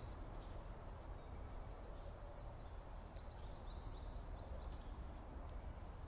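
Small birds chirping faintly, with a run of quick high chirps in the middle, over a steady low rumble.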